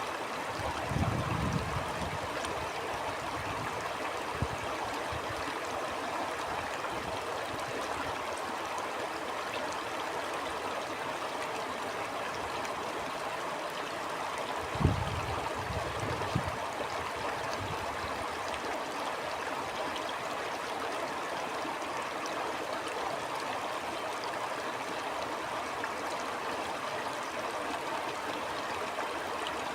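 Stream water flowing steadily over rocks, an even rushing and gurgling. Brief low thumps break in about a second in and again about halfway through.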